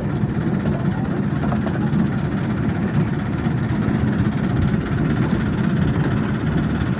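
Miniature railway train running, a steady low rumble.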